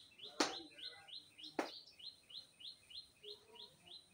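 A bird chirping over and over in short rising chirps, about four a second. Two sharp knocks, about half a second and a second and a half in, are the loudest sounds.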